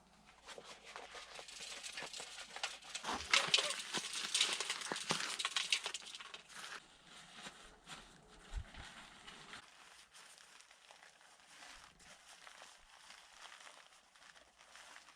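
Dense rustling and crackling that builds up, is loudest a few seconds in, then thins out to faint scattered rustles.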